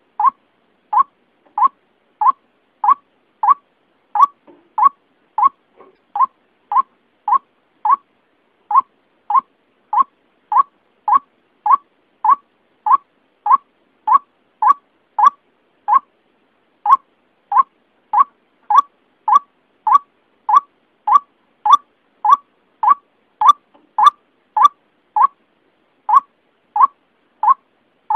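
White-breasted waterhen (ruak-ruak) call played as a bird-lure recording: one short, sharp note repeated over and over, about one and a half a second, broken by a brief pause a few times.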